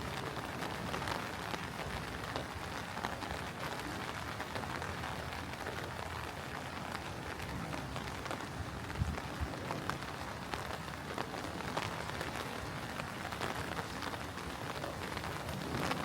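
Steady rain falling and pattering, with many small drop clicks over an even hiss.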